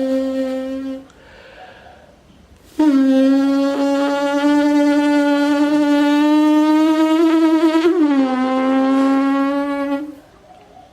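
A man's voice imitating a racing car engine: a buzzing held hum that cuts off about a second in, then after a short pause a long one that climbs slowly in pitch, drops suddenly near 8 s like a gear change, and holds until about 10 s.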